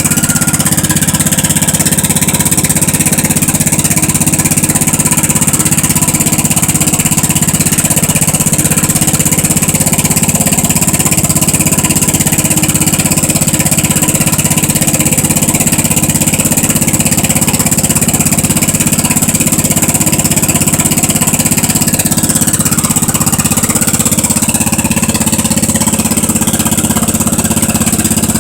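Wheel Horse 857 garden tractor engine running steadily with a small dip in loudness about three-quarters of the way through. It is a cold engine, started after a month unused in near-freezing weather.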